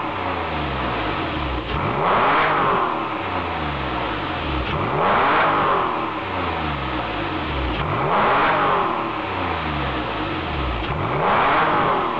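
Porsche 997's flat-six being revved through an aftermarket Thunder quad-tip rear muffler: four blips of the throttle about three seconds apart, each climbing quickly and then falling slowly back to idle.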